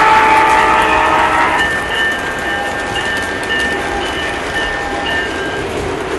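Model train's sound system sounding a multi-tone horn: a long, loud blast that ends about a second and a half in, followed by a run of shorter, softer repeated tones.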